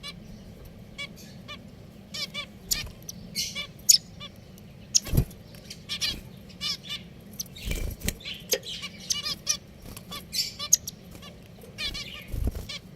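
Pet finches calling: a busy run of short, nasal, honk-like calls and chirps, many overlapping. Three dull low thumps are heard among them, about five, eight and twelve seconds in.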